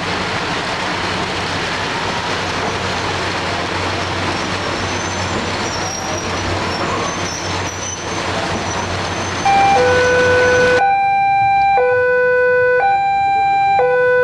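Patas AC diesel railcar train passing close by: a steady rumble with a low hum and wheel-on-rail noise. About ten seconds in it cuts off suddenly, giving way to an electronic two-tone signal that alternates a low and a high note about once a second.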